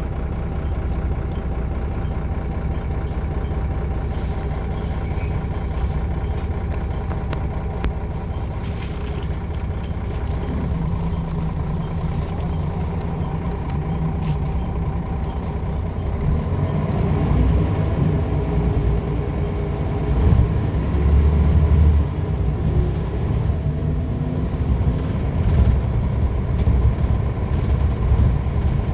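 Scania L94UB bus engine running steadily at low revs, then picking up and accelerating from a little past halfway, getting louder with rising engine pitch through its ZF automatic gearbox.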